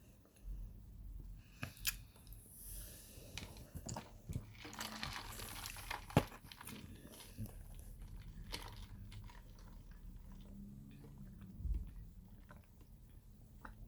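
Biting and chewing crunchy microwaved Kingsford cornstarch chunks close to the microphone: a run of sharp crunches and clicks, thickest about four to six seconds in.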